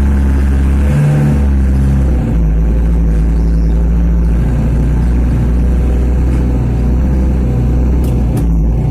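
1995 Mitsubishi Canter light truck's diesel engine running under way; the engine note shifts about two seconds in. A couple of sharp clicks near the end.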